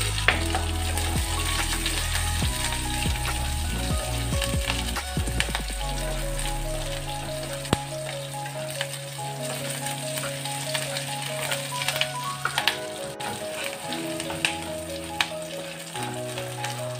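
Chopped onion frying in hot oil in a nonstick kadai, with a steady sizzle and scattered pops and clicks as it is stirred with a wooden spatula. This is the tempering for sambar, with mustard seeds, dry red chillies and curry leaves. Background music with held notes plays underneath.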